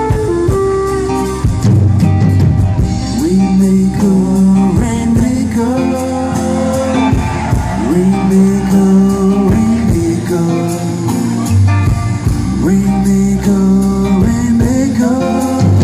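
Live rock band playing at full volume, with a sustained lead melody that slides between long held notes over guitar, bass and drums.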